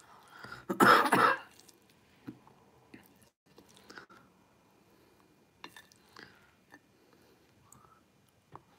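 A person chewing a mouthful of stir-fried beef noodles, with faint scattered mouth clicks and soft chewing noises. There is one louder, breathy burst about a second in.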